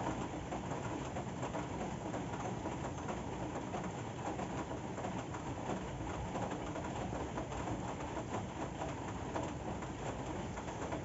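Steady rain falling, an even hiss of drops that keeps on without let-up.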